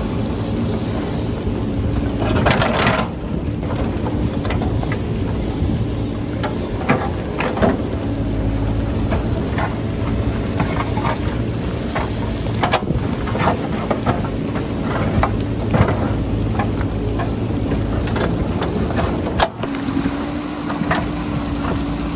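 JCB backhoe loader's diesel engine running steadily under load while it digs into rocky hillside, with many scattered knocks and clatters of rock and bucket, and wind noise.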